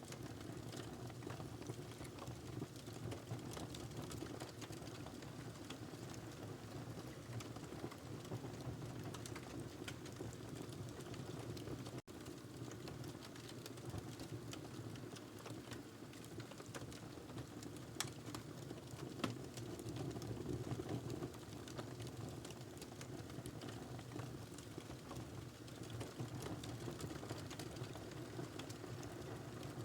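Fire burning in a fireplace, crackling and popping steadily over a low rumble of flames, with two sharper pops about eighteen and nineteen seconds in.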